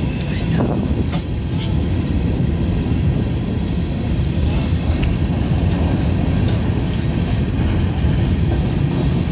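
Norfolk Southern freight train of hopper cars rolling past: a steady low rumble of steel wheels on rail, with occasional faint high squeals and clicks.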